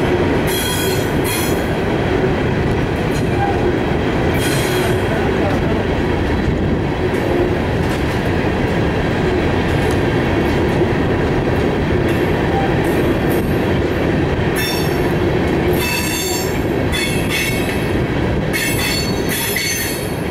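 Empty rock gondola cars of a freight train rolling past, a steady loud rumble of wheels on rail, with short high-pitched wheel squeals breaking in again and again, most often in the second half.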